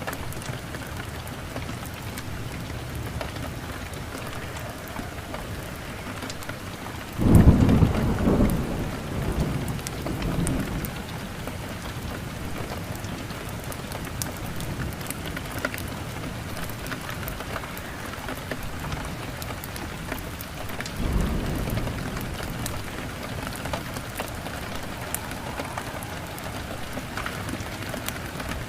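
Steady rain falling, with a sudden loud thunderclap about seven seconds in that rumbles away over a few seconds, and a second, weaker roll of thunder about twenty-one seconds in.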